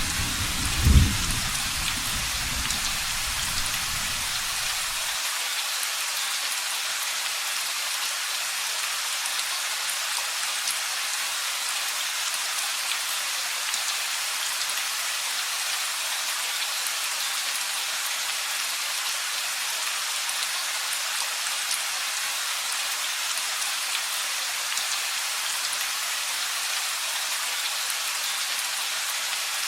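Steady rain falling, an even hiss throughout. A low thunder rumble fills the first few seconds, with a loud crack about a second in, and cuts off suddenly about five seconds in.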